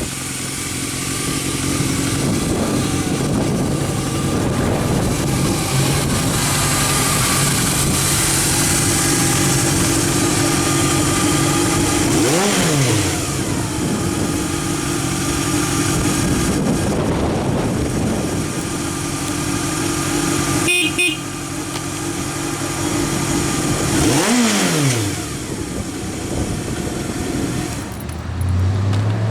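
Kawasaki Z650 'Zapper' air-cooled inline-four motorcycle engine idling steadily through its exhaust. The rider gives two quick throttle blips, one near the middle and one near the end, each a fast rise and fall in pitch.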